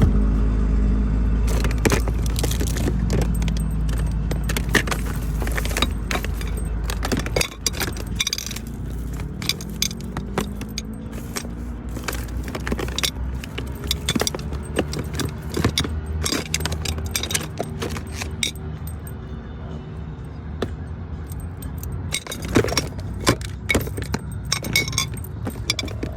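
A car's engine and road rumble, rising and falling in pitch, with many light clicks and rattles through it. The rumble drops off about a third of the way in.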